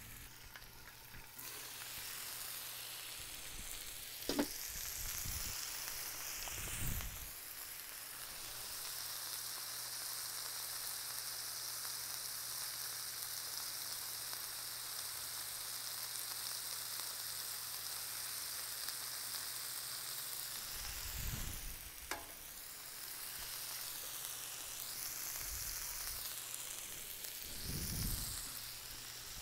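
Ground-beef burger patties frying on a Blackstone flat-top griddle: a steady sizzle, with a few low knocks of handling now and then.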